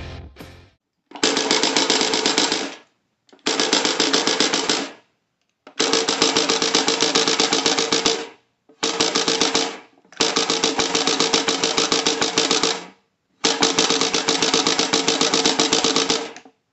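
Matraca, a hand ratchet rattle, spun in six bursts of rapid, even clacking, each one to three seconds long with short pauses between, imitating machine-gun fire.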